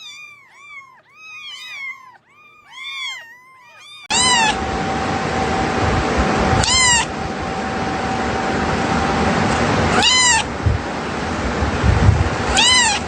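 Cats meowing: for the first four seconds a quick run of short high mews, several a second; then, after a sudden change, four loud drawn-out meows about three seconds apart over a steady hiss.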